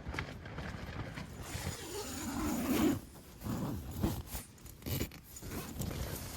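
Strong wind gusting against a tent, shaking and flapping its fabric in uneven swells with sharp slaps.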